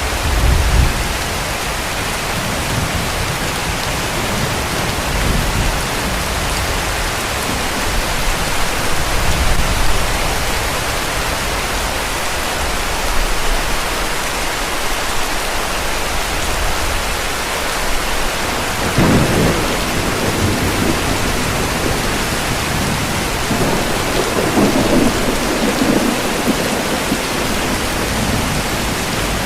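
Heavy, steady rain with rolls of thunder. Low rumbles come in the first ten seconds, and louder peals come about twenty seconds in and again near the end.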